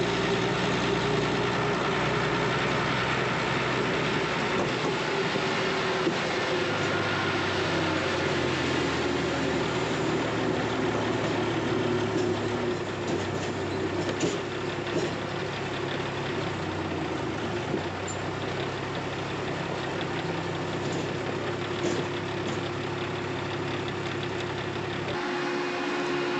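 Heavy diesel farm machinery running steadily under load, with a constant hum and hiss; the lowest part of the engine hum drops away near the end.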